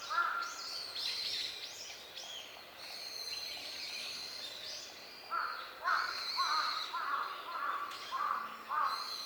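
Wild birds calling. A run of short, arched calls repeats about twice a second through the second half, with thinner, higher calls in the first few seconds.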